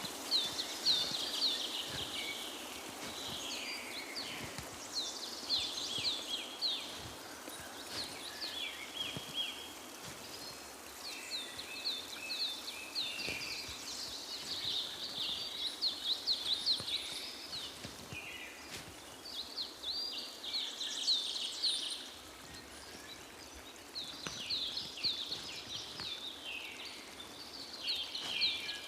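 Songbirds singing: short phrases of quick high chirps and trills, repeated every few seconds over a steady background hiss.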